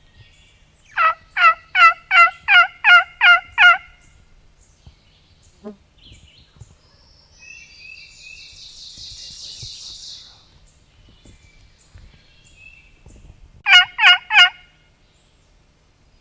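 Turkey yelping: a run of eight loud, evenly spaced yelps, then a short run of four near the end. A fainter, higher raspy twittering, likely another bird, is heard in between.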